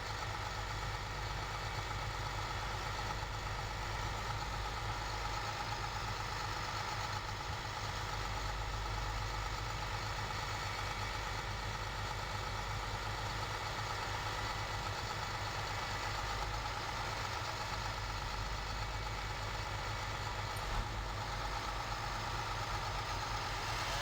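A large engine idling steadily with a low, even throb.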